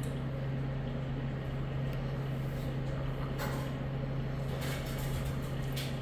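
A steady low hum over an even background rush, with a few faint short hisses in the second half.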